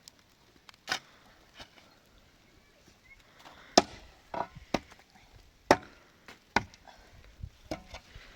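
Irregular sharp knocks of wood being struck, about a dozen blows at uneven spacing, the loudest near four and six seconds in.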